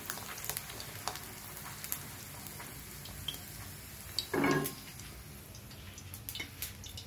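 Luchi deep-frying in hot oil in an iron kadai: a steady sizzle dotted with small crackles and pops. A brief louder noise comes about four seconds in.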